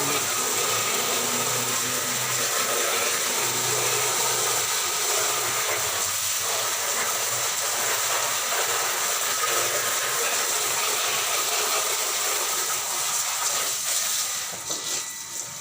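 Steady hiss of water spraying while a white-rumped shama is given its bath. The spray eases off near the end.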